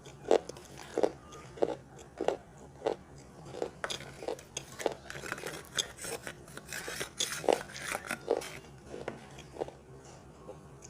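A person biting and chewing a large piece of chalk with clay, in a run of sharp crunches about every half second. The crunching becomes denser and more crackly in the middle, then thins out near the end.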